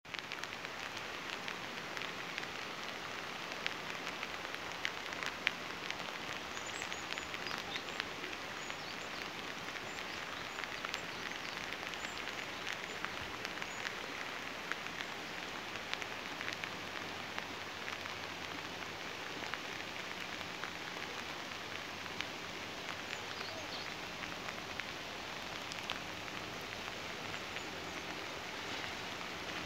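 Steady rain falling: an even hiss thick with small drop ticks.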